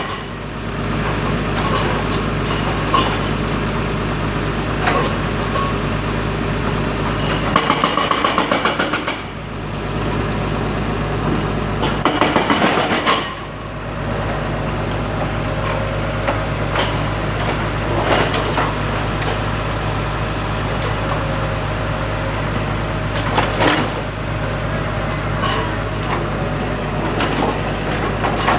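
Heavy diesel engine of an L&T Komatsu machine running steadily under work, with two bursts of fast rattling, about 8 and 12 seconds in, and occasional clanks.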